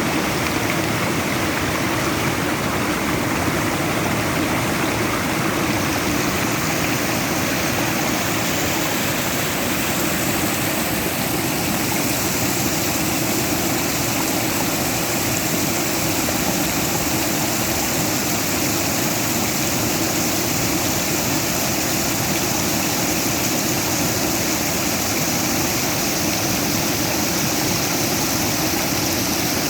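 Flowing stream water rushing steadily and evenly, with no pauses or changes.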